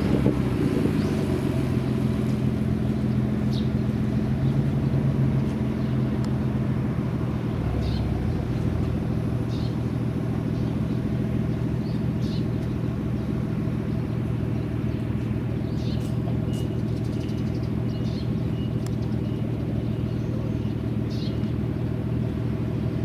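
Car engine idling steadily, a low even rumble with no revving.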